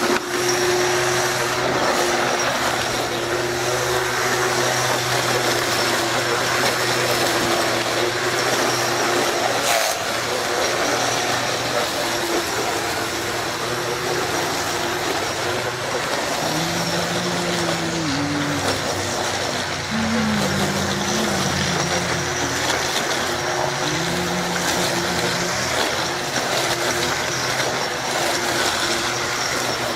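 Black & Decker electric string trimmer with a snap-on mower deck running as it cuts grass, its motor whine steady and then dipping and shifting in pitch partway through as the load changes.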